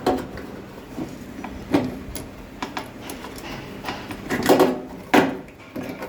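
A few separate knocks and clatters of hard objects being handled and set down, with short quiet gaps between them.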